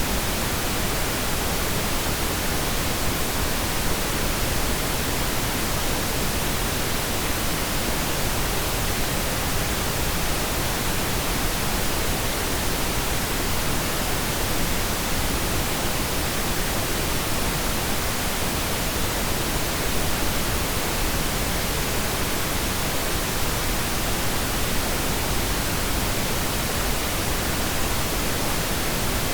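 Steady pink noise: an even, unchanging hiss with no individual sounds standing out.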